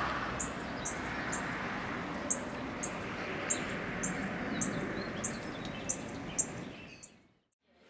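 Outdoor spring ambience: a bird chirping, a short high chirp repeated about twice a second, over a steady rushing background noise. It fades out near the end.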